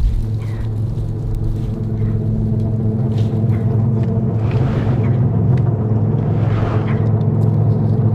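A steady low hum with several fixed tones, like an engine or machine running, with brief rushes of noise about four and a half and again six and a half seconds in.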